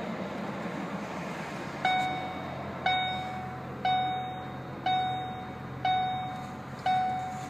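Ford Focus ST dashboard warning chime ringing six times, about once a second, each ring fading, over the low steady hum of the turbocharged EcoBoost four-cylinder idling just after a push-button start.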